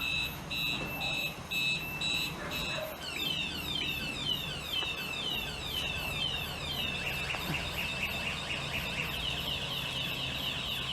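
Electronic multi-tone alarm siren stepping through its patterns: pulsed two-tone beeps about two or three a second, then rapid repeated rising chirps from about three seconds in, then a fast warble from about seven seconds in.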